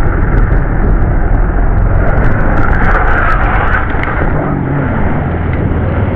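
Loud, steady rush of wind and road noise over a running motorcycle engine, as picked up by a rider's onboard camera while riding.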